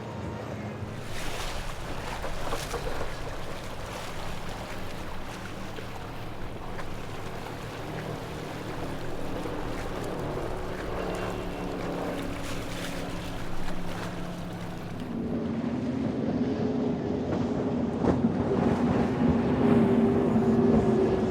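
Motorboat engines running over the wash of waves and wind, with one engine getting louder from about fifteen seconds in.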